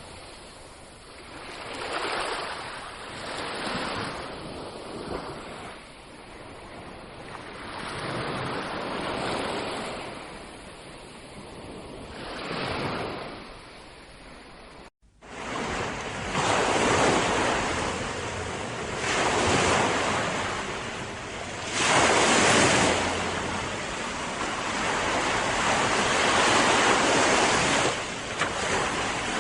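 Ocean surf: waves breaking and washing on a shore, the rush swelling and falling every two or three seconds. About halfway through it cuts off for an instant and jumps to a louder, closer recording of surf.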